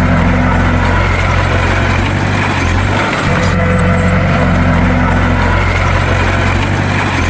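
Bulldozer's diesel engine running steadily at a constant pitch, with a brief dip about three seconds in.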